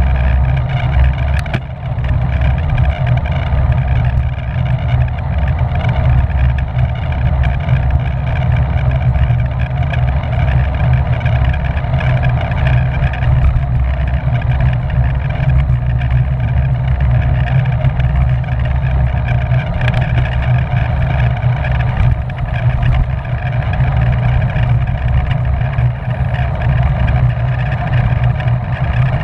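Steady wind noise buffeting the microphone of a camera on a racing bicycle ridden at speed, a loud low rumble that does not let up.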